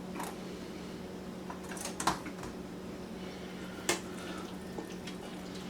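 Spoon clinking against a pot while thick, gravy-based chicken pot pie filling is scooped out: a few separate clinks, the sharpest about two seconds in and another near four seconds, over a steady low hum.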